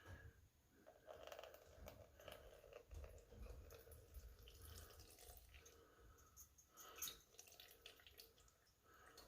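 Faint dripping and trickling of white gas draining out of a small stove fuel tank, with a few light handling ticks.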